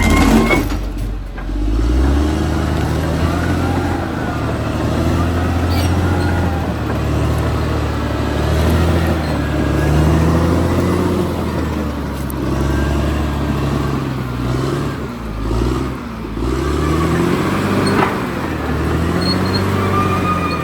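Caterpillar D6R XL bulldozer working, its diesel engine running under changing load with the pitch rising and falling over and over. There is a sharp knock near the end.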